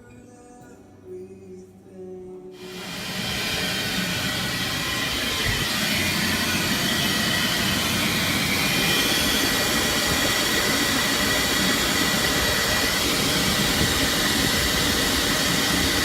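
Soft music, then about two and a half seconds in, an oil furnace burner's steady roar and hiss comes in suddenly and runs on evenly, with a couple of faint steady whining tones in it.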